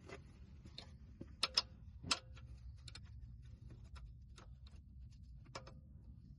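Irregular clicks and metallic clinks of hand tools and parts being handled during under-car work, the loudest two about one and a half seconds in and another about two seconds in, over a low steady hum.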